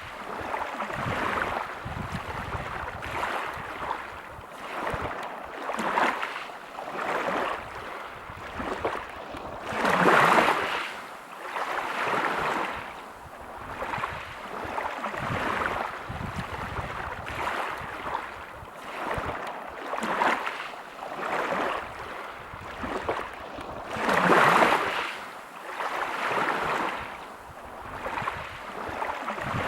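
Sea waves breaking on a pebble beach, the surf swelling and easing every couple of seconds, with two bigger breakers about ten and twenty-four seconds in.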